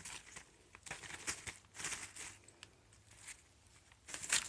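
Kittens scuffling and scampering about, making irregular bursts of soft rustling and scratching, with the loudest burst near the end.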